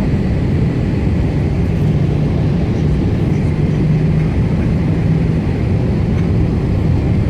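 Steady jet engine noise heard inside the cabin of a Boeing 747-8 airliner, a low rumble with a faint steady hum, its level and pitch unchanging.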